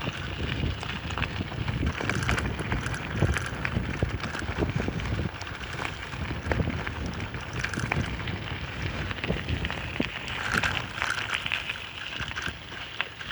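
Bicycle being ridden on a dirt road: tyres crunching over the dirt with frequent small knocks and rattles, and wind noise on the microphone.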